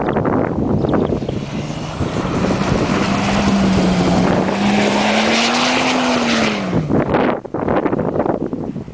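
Ford Territory Turbo's turbocharged 4.0-litre inline-six engine running under throttle as the SUV drives on grass, its pitch holding, climbing, then falling sharply about seven seconds in and fading. Heavy wind noise on the microphone throughout, buffeting in gusts near the end.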